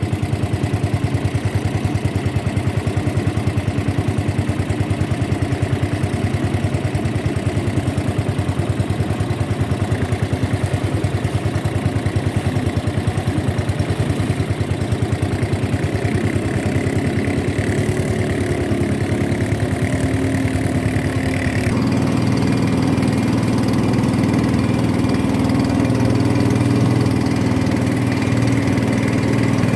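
A boat's motor running steadily with a fine regular pulse. About two-thirds of the way through, its note shifts and becomes fuller and steadier.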